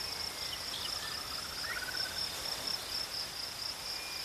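Steady high-pitched insect chorus, like crickets trilling, with a few faint bird chirps and a short trill about a second in.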